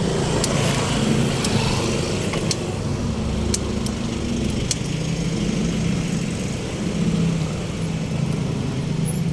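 A small motor vehicle engine running steadily, its pitch shifting slightly, with light ticks about once a second.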